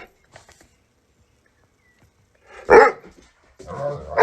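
A dog barking: one sharp bark near the middle, then a longer, deeper bark near the end.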